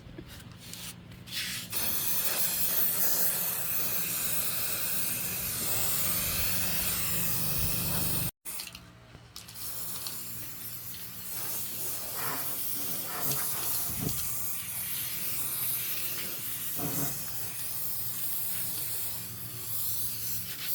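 A pressurised spray hisses steadily over a low machine hum. It cuts out abruptly a little under halfway through, then starts again.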